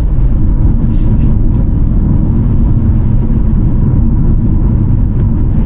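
Car driving at road speed: a steady, loud low rumble of wind buffeting and road noise.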